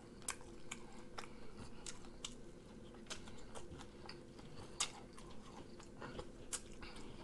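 A person chewing rotisserie chicken close to the microphone, with wet mouth smacks and sucking sauce off the fingers. There are soft, irregular clicks throughout and one sharper smack a little before five seconds in.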